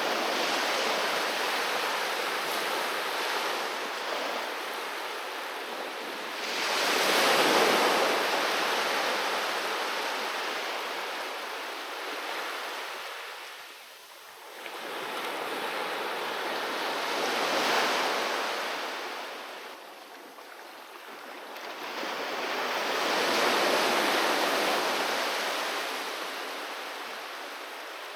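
Sea waves breaking and washing up a beach, in slow surges that swell and fade every six to ten seconds, the loudest about seven seconds in.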